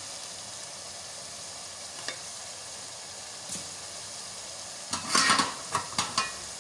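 Beef mince frying in a metal pot with onions and green chillies, a steady sizzle. About five seconds in, a burst of stirring: the wooden spoon scrapes and knocks against the pot several times.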